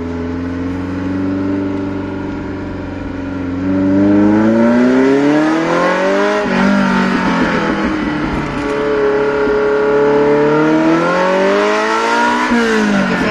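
Ferrari Mondial 3.2's V8 with a custom exhaust, heard from inside the cabin under way. It holds a steady note at first, then rises in pitch and gets louder about four seconds in, dips at a gear change, and climbs again before a second shift near the end.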